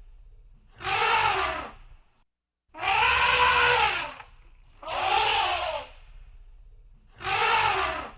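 Elephant trumpeting four times in a row. Each call lasts about a second, rising then falling in pitch, with short gaps between calls.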